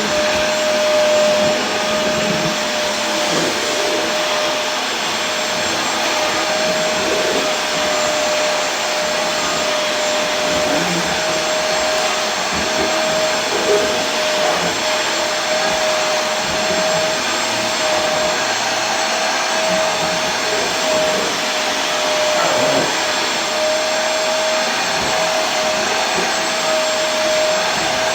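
Vacuum cleaner running steadily: an even rushing noise with a constant mid-pitched motor whine, unchanging throughout.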